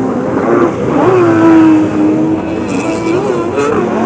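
Racing jet ski engines running hard, several at once, their pitch rising and falling as they race around the course. One engine's pitch climbs sharply about a second in and then holds steady.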